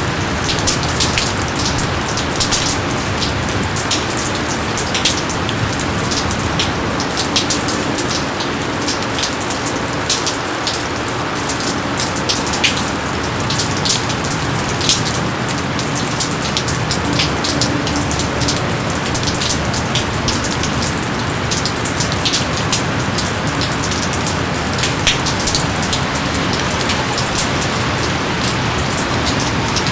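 Steady rain falling, a dense even hiss with many sharp individual drop hits ticking on top of it throughout.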